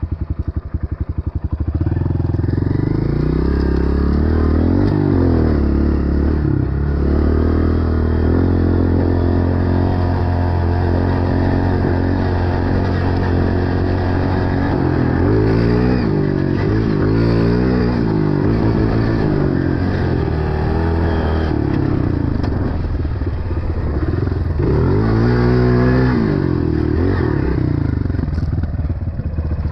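Dirt bike engine running under the rider, the revs rising and falling repeatedly as he accelerates and backs off the throttle.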